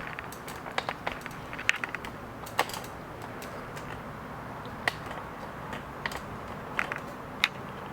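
Scattered light clicks and taps from hands handling small objects, irregular and a few a second, over a steady low background hum.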